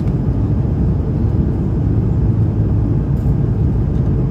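Steady cabin noise of an Airbus A330-300 in cruise flight: a constant low rumble of engines and airflow heard inside the passenger cabin.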